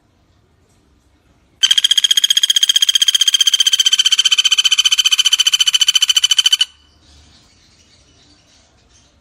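A pelatuk bawang woodpecker gives one long, rapid rattling trill, about five seconds of fast, even, high notes at a steady pitch, starting about a second and a half in and stopping sharply. Faint chirps and insect buzzing fill the background before and after it.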